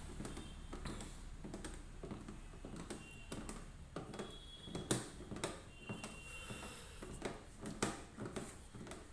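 Irregular light clicks and knocks of parts and tools being handled while a front-load washing machine is reassembled, with a few brief faint squeaks.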